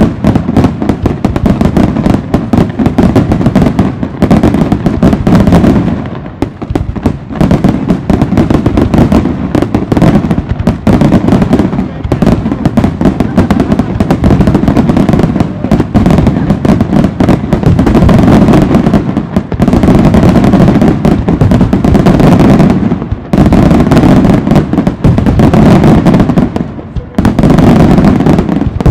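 Aerial fireworks: a dense, almost unbroken barrage of shell bursts and crackling reports, very loud. It starts suddenly and comes in waves with brief dips every few seconds.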